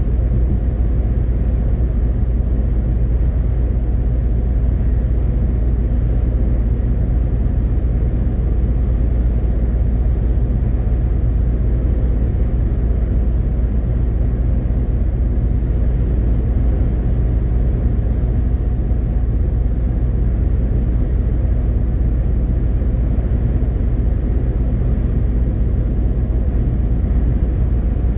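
MAN TGX 18.520 truck driving at a steady speed: the low, even drone of its six-cylinder diesel and tyre and road noise, with no gear changes or revving.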